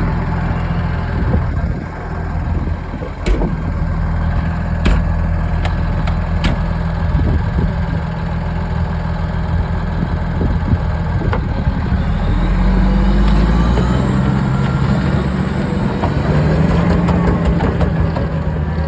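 Komatsu D65PX-16 bulldozer's six-cylinder diesel engine running steadily, with a few sharp clanks in the first several seconds. About twelve seconds in, the engine note rises and stays higher.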